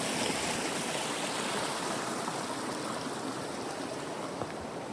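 Creek water running with a steady rush that grows slightly fainter over the few seconds.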